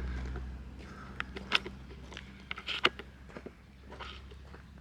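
Scattered footsteps and small clicks and taps, over a low steady hum that fades away in the first couple of seconds.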